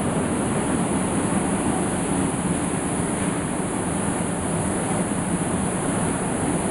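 Stainless bakeware washing machine running, with a steady, even rush of water.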